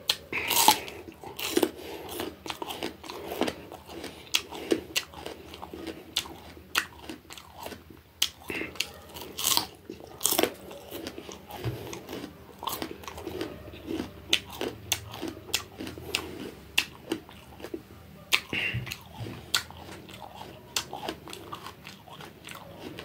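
Raw bitter gourd being bitten and chewed: a steady run of irregular, crisp crunches, the sharpest near the start and again about ten seconds in.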